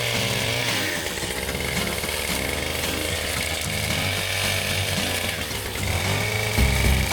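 Two-stroke chainsaw running under load as it cuts downed tree trunks, its engine pitch dipping and rising again as the chain bites into the wood.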